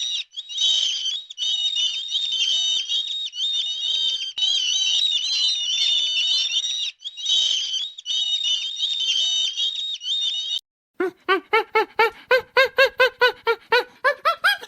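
Songbirds singing in a dense, continuous high-pitched chorus. About ten seconds in it cuts off abruptly, followed by a rapid series of short pitched animal calls, about four a second.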